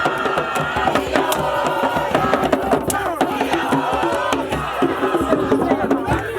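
A group of voices singing a chant together over rhythmic percussion with a rattle-like shaking.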